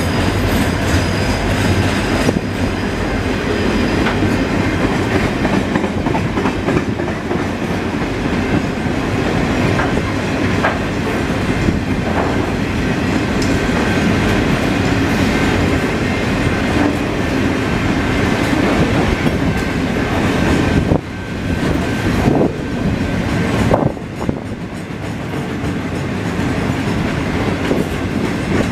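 Loaded steel-coil freight wagons rolling past: a steady rumble of steel wheels on rail, with clicks as the wheels cross rail joints. The noise dips briefly twice near the end.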